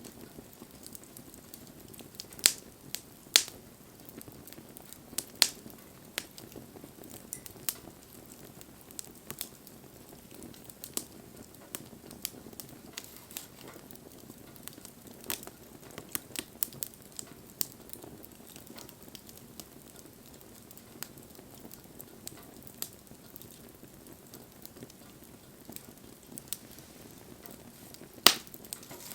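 Bonfire crackling: irregular sharp pops and snaps over a faint steady hiss, with a few louder pops about two and three seconds in and one near the end.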